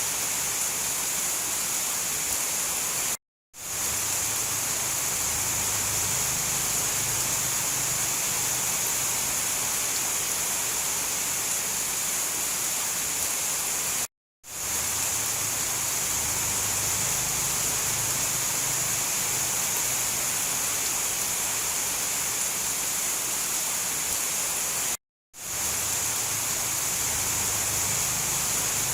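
Steady heavy rain, an even hiss, from a looped recording that cuts out to silence three times, about every eleven seconds, each time fading quickly back in.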